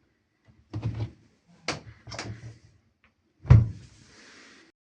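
A few separate knocks and clunks of a door being handled, the loudest about three and a half seconds in, followed by a short soft hiss.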